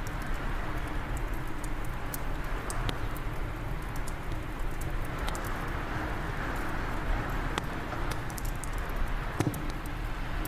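Wood fire crackling in a fireplace, with irregular sharp pops over a steady rush of wind.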